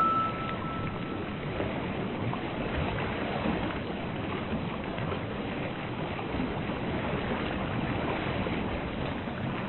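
Steady rushing ocean-water ambience, like surf or sea noise, with no distinct events. A held high tone fades out in the first second or so.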